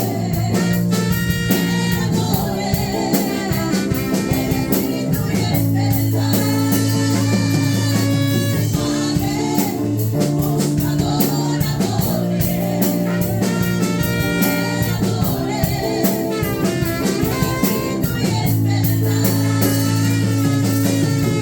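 Praise and worship music played by a band with drum kit, bass and guitar, with singing over it.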